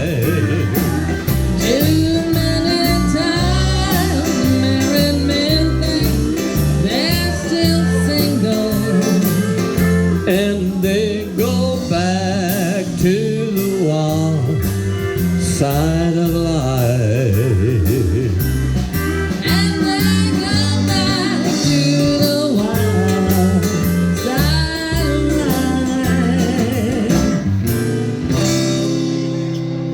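Live country band playing an instrumental break on a honky-tonk song, guitar to the fore with sliding, wavering lead lines over a steady beat, easing off near the end.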